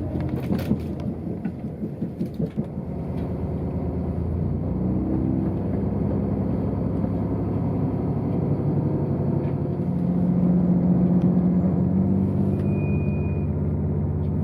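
A vehicle's engine running steadily, with a few clicks early on and a louder, higher hum from about ten seconds in. A short high beep sounds near the end.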